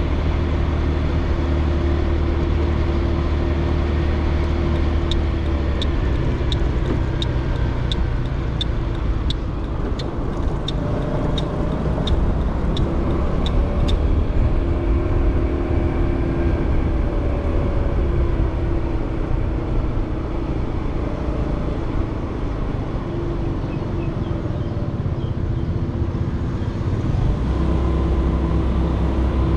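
Motorcycle ride heard from a helmet-mounted GoPro Hero 8 with a foam wind-noise sponge: the engine running under a steady low wind rumble. A regular high ticking, about one and a half ticks a second, runs for about nine seconds starting about five seconds in.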